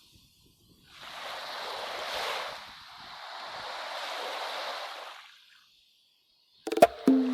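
Two swells of ocean waves washing in, each rising and fading over about two seconds, with silence around them. Plucked-string music begins near the end.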